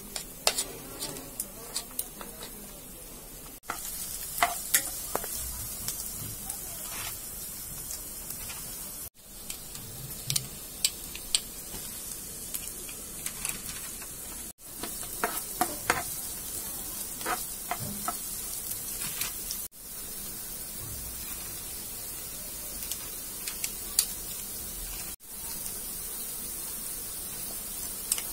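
Chopped onions and garlic sizzling in hot oil in a nonstick pan, a steady hiss broken by scattered sharp clicks and taps as they are stirred. Before that, about the first three and a half seconds are quieter, with the clicks of a fork against a plate as cooked chicken is shredded.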